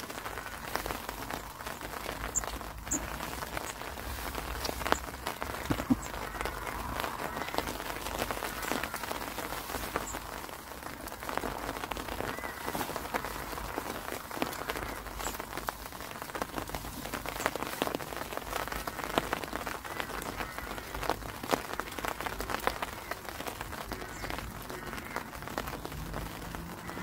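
Heavy rain falling, heard from under a fishing umbrella: a steady hiss with many separate drop taps.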